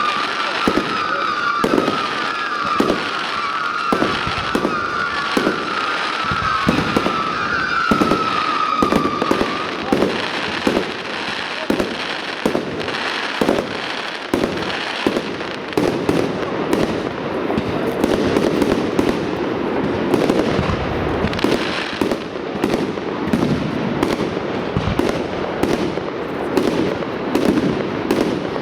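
Fireworks display: aerial shells bursting in rapid, continuous succession. A wavering, slowly falling whistle runs through the first ten seconds, and the bursts grow denser from about sixteen seconds in.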